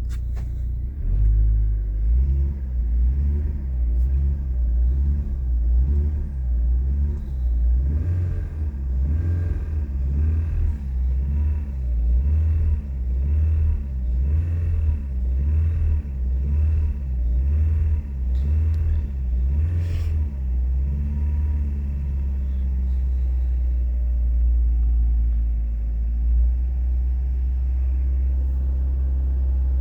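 Car engine revved repeatedly in short blips, about once a second, then settling to a steady idle for the last several seconds.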